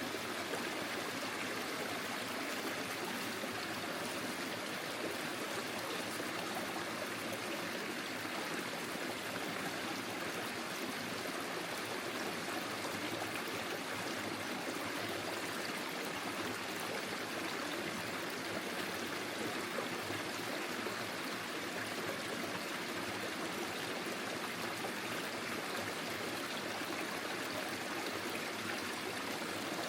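Forest stream running steadily over stones, a continuous even rush of water with fine trickling.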